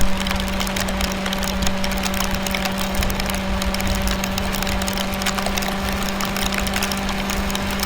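Yamaha R25's parallel-twin engine running at a steady, unchanging speed under a constant rush of road and wind noise.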